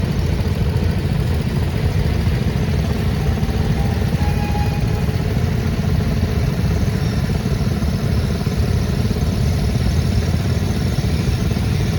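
Vintage farm tractor engines running steadily as tractors pass in a parade, a continuous low engine sound.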